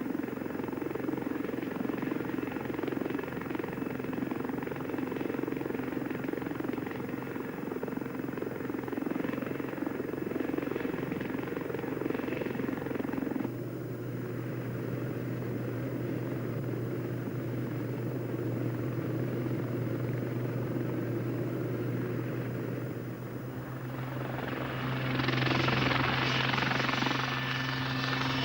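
Westland Lynx helicopter running: a steady drone from its rotor and turbine engines. The sound changes abruptly about halfway through, as at a cut to another shot. Near the end a louder hissing rush builds up.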